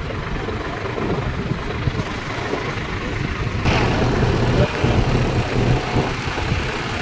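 Tractor engines running in a low, steady rumble as tractors go by. About halfway through, a louder rush of noise comes in for a few seconds.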